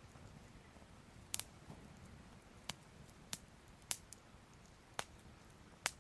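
Soft fire crackling: about half a dozen sharp, irregularly spaced pops and snaps over a low, steady rumbling hiss.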